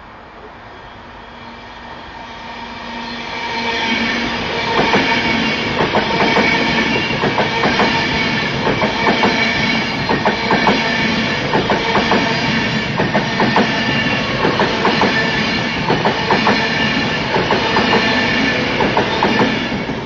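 A train passing through the station at speed without stopping, growing louder over the first few seconds, then a steady rumble with a rhythmic clatter of wheels over the rail joints.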